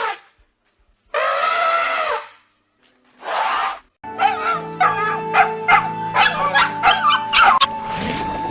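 A dog giving two calls, a drawn-out one of about a second and then a short one, followed from about halfway by background music.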